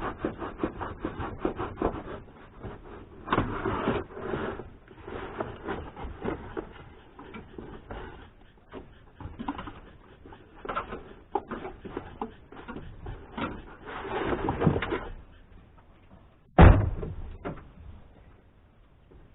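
A freshly replaced blade cutting and scraping, in quick rubbing strokes, with bursts of scraping and rustling. One loud knock comes about two-thirds of the way through.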